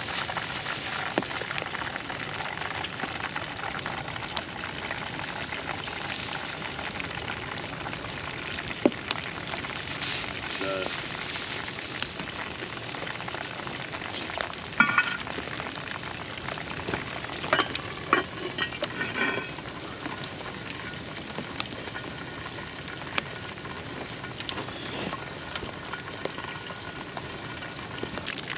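Crumbed cutlets frying in a pan over a campfire: a steady sizzle with scattered sharp crackles and clicks, busiest a little past halfway.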